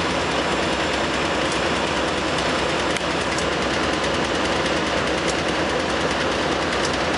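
Container freight train's wagons rolling past: a steady loud rumble and clatter of steel wheels on the rails, with a few sharp clicks.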